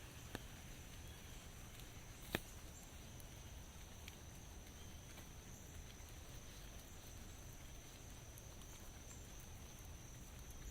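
Light rain falling as a faint steady hiss, with a few sharp drops landing close by, the loudest about two seconds in.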